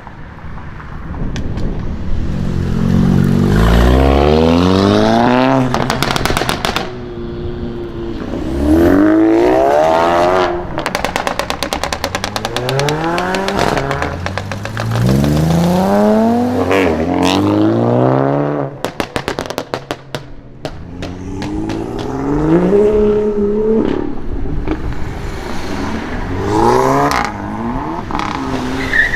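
Sports cars with aftermarket exhausts accelerating hard away one after another, engine pitch rising and dropping through the gear changes. Several times the exhaust crackles and pops as the throttle is lifted.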